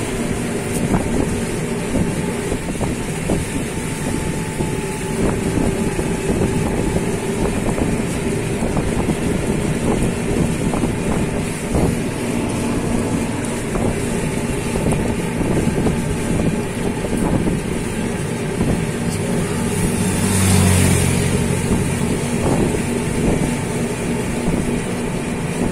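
Motorboat engine running steadily, with wind buffeting the microphone. About twenty seconds in, a deeper, louder engine sound swells for a couple of seconds and then fades.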